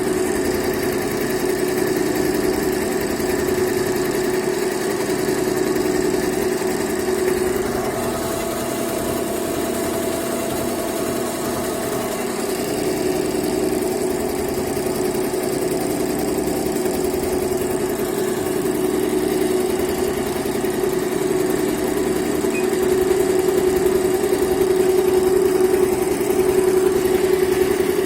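Yehi embroidery machine running and stitching, a steady mechanical hum with a fast needle rhythm, slightly louder near the end. It is sewing normally now that its E24 start error has been repaired.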